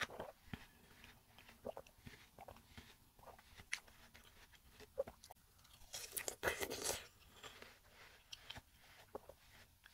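Close-miked crisp, wet chewing of fresh watermelon flesh, with soft mouth clicks. About six seconds in there is a louder crunchy bite into a skewered piece of watermelon.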